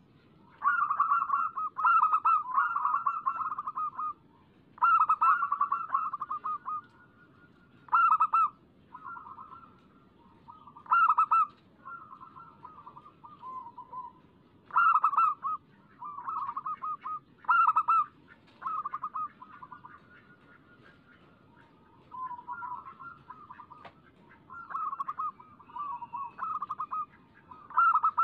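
Zebra dove (perkutut) singing in repeated phrases of rapid staccato coos, with a quieter gap of a few seconds past the middle. It is the lively 'gacor' song used as a lure to set other perkutut singing.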